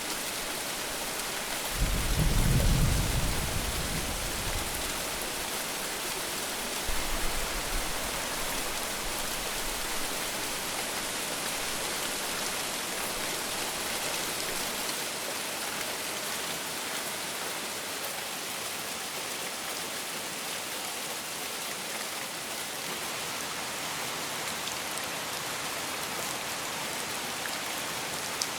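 Steady heavy rain, with a short low rumble of thunder about two seconds in and a fainter rumble around seven seconds.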